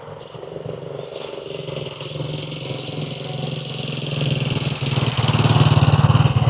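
A motorbike engine drawing closer, its running growing steadily louder and loudest near the end.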